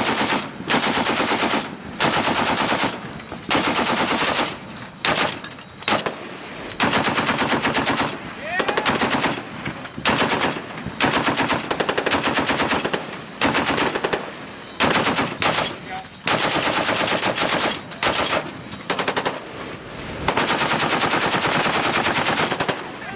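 Sustained machine-gun fire from a shipboard crew: over a dozen long bursts of rapid shots, each one to two seconds, with brief pauses between them.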